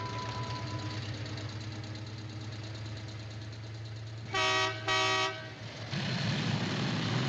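Two short toots of a vehicle horn about four seconds in, over a truck engine running steadily. The engine noise grows louder about six seconds in.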